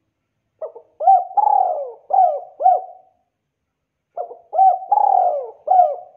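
Spotted dove (tekukur) cooing its song: a phrase of several low, throaty coos, repeated once starting about four seconds in.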